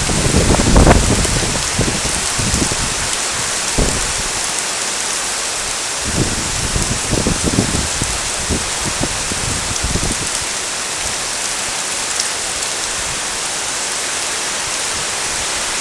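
Heavy rain falling steadily, a dense even hiss, with irregular low rumbles and thumps now and then, the strongest in the first second.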